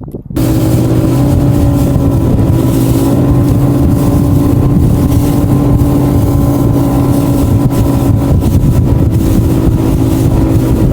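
Boat's outboard motor running steadily at cruising speed, starting abruptly about half a second in and holding an even pitch.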